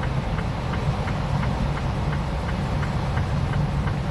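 Semi truck rolling slowly on snow with tire chains on its drive tires, heard from inside the cab: a steady engine and road rumble under an even clacking of the chains, about three clicks a second.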